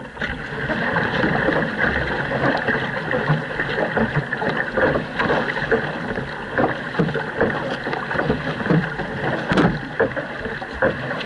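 Canoe under paddle: paddle blades splashing and water rushing along the hull in a steady, dense wash, with wind buffeting the microphone.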